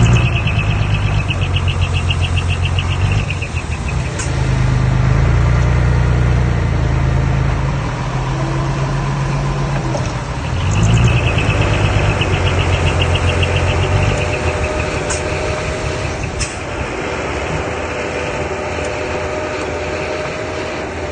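Diesel engine of earth-moving machinery running, with a low drone that grows and eases as it works and then settles lower after about 14 seconds. A fast, even, high rattle comes twice, near the start and again about eleven seconds in, and there are a few sharp clicks.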